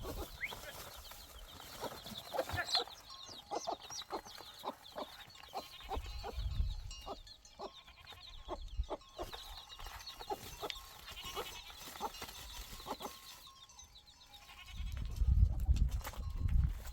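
Animal calls, with many short clicks or knocks in between and a low rumble twice, about six seconds in and near the end.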